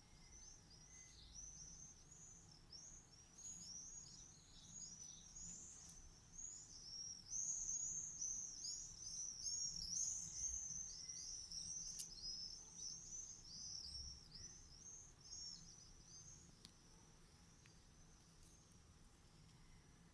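A small songbird singing a long, fast twittering run of high chirps, loudest around the middle and dying away about two-thirds of the way through.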